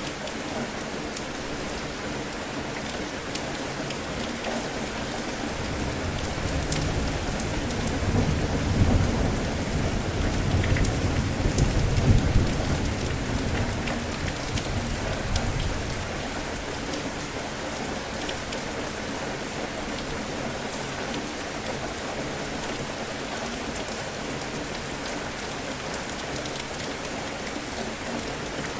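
Steady rain falling, with a long rumble of thunder that builds about six seconds in, peaks twice around the middle, and dies away a few seconds later.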